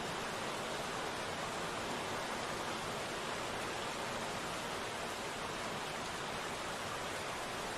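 Steady rain falling as an even hiss, with no single drops or thunder standing out.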